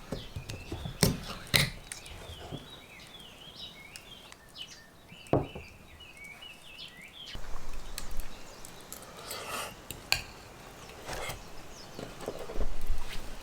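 Scattered knocks and clinks of gear being handled, the sharpest about a second in and again around five seconds, with small birds chirping through the first half.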